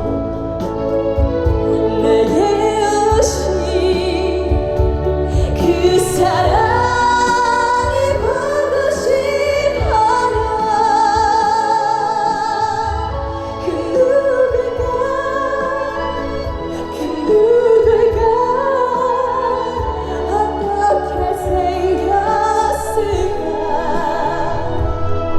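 A woman singing a slow trot song live through stage speakers, her held notes wavering with vibrato over instrumental accompaniment with a steady low beat.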